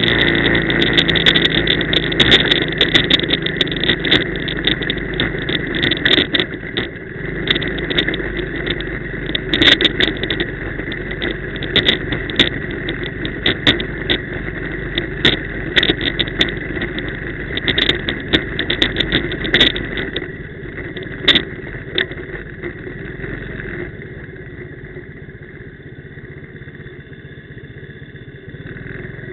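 Quad bike engine running on the move, with many sharp knocks and rattles through it; it gets quieter over the last few seconds.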